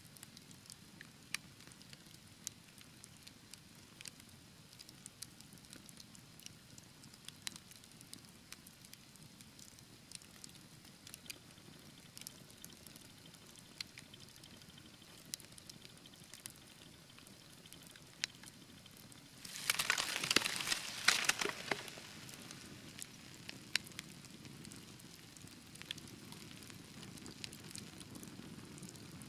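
Fire in a fireplace crackling, with scattered sharp pops over a low, steady rushing of flames. About two-thirds of the way in comes a dense, louder flurry of crackling that lasts about two seconds.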